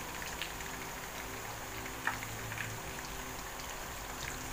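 Breaded fish fillet frying in shallow oil in a pan: a steady crackling sizzle, with a light tap about two seconds in.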